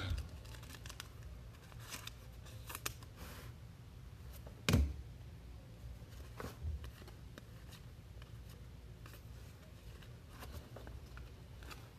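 Trading cards and packs being handled on a table: faint rustling and scattered light clicks over a low room hum, with one louder knock a little under five seconds in.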